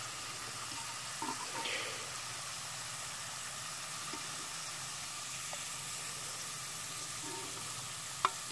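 Thin potato slices frying in hot oil in a Dutch oven, a steady sizzle; the oil is a little too hot, which is burning the smaller crisps. A few faint small knocks come about a second and a half in, and a sharp click near the end.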